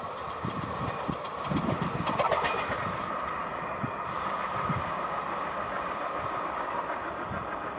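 Passenger coaches of an express train running through at speed, their wheels clattering over the rail joints in irregular low thumps over a steady rumble. The thumps thin out after about five seconds.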